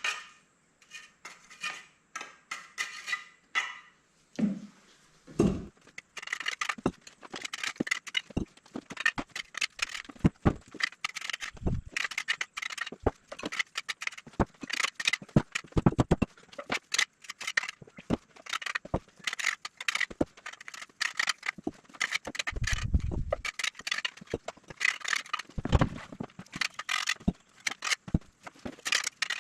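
Hand-tool work: rapid, irregular scraping and clicking, with a few dull thumps in the second half.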